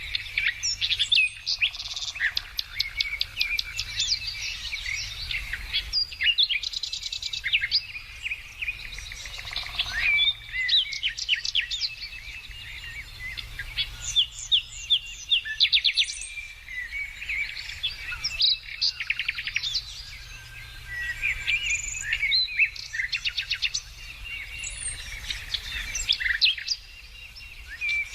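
Several songbirds singing and calling at once: a dense chorus of overlapping chirps, rapid trills and short whistled notes. A faint steady low hum runs underneath.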